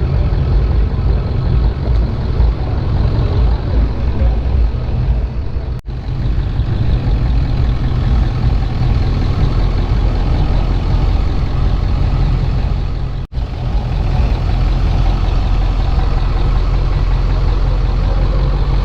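Truck engines running with a steady, heavy, low rumble as trucks cruise by, broken by two very short dropouts about six and thirteen seconds in.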